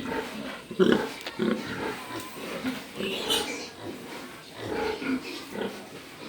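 Domestic pig grunting, a run of short, irregular grunts.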